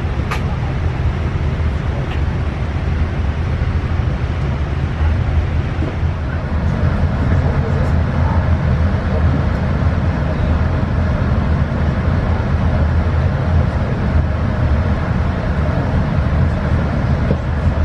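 Steady low rumble with a hiss inside the cabin of a Boeing 787-9 airliner, the noise of the aircraft's engines and airframe on the move, growing slightly louder after the first few seconds.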